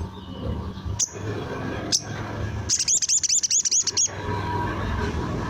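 Sogon (ruby-cheeked sunbird) singing: two sharp, high single notes about a second apart, then a rapid rippling trill of quick rising-and-falling high notes lasting about a second and a half.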